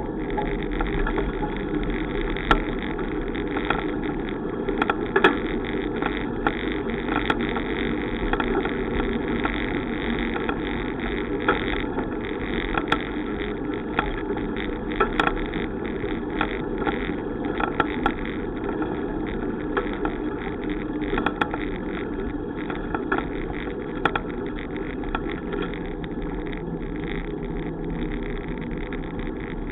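Steady wind and road noise of a bicycle ride, with frequent small clicks and knocks from bumps and rattles.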